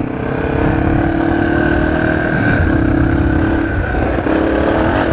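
Dirt bike engine running at a fairly steady pitch while being ridden, picked up by a cheap microphone inside the helmet's cheek pad.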